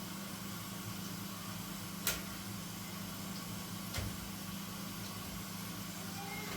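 A steady low mechanical hum, as of a running appliance or small motor, with two sharp clicks about two seconds apart.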